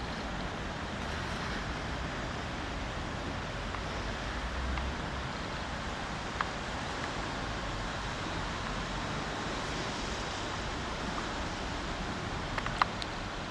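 Steady background hiss of room noise with no speech, broken by a couple of faint short clicks, one about six seconds in and one near the end.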